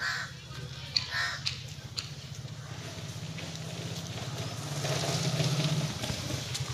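A couple of short, harsh bird calls, one at the start and one about a second in, over a steady low hum that swells for a while about five seconds in.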